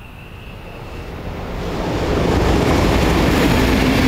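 A train approaching and crossing the steel railway bridge overhead: a rumble that builds over the first two seconds, then holds loud.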